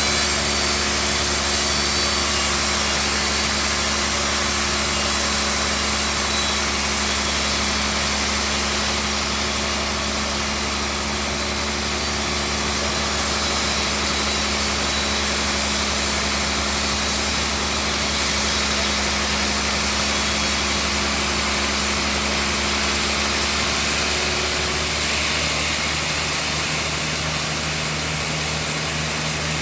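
Sawmill bandsaw machinery running steadily: a constant drone with a hum and a hiss. Near the end the hiss thins and the hum changes pitch.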